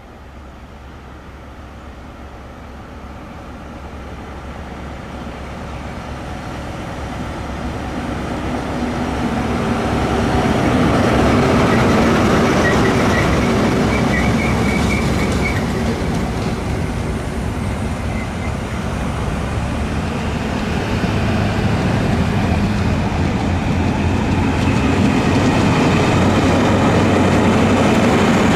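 A Class 43 HST diesel test train passing close by: the leading power car grows louder as it approaches and goes by, then the coaches run past with wheels clattering on the rails and a brief high wheel squeal about halfway. Near the end the rear diesel power car's engine comes past with a low steady drone.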